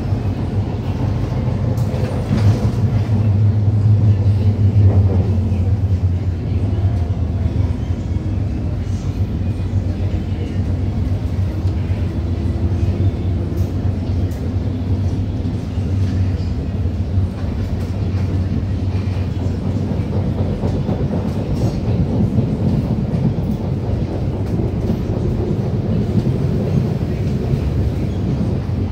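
MTR Disneyland Resort Line train (set P505/P506) running at speed between stations, a steady low rumble of wheels and running gear heard from inside the car.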